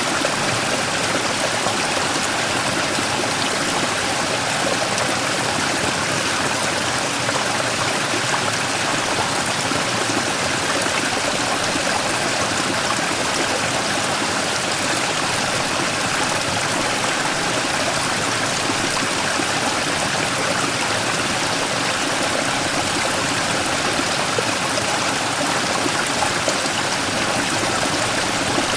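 Mountain stream flowing steadily over and around a large rock, a continuous rush of water with splashing and trickling.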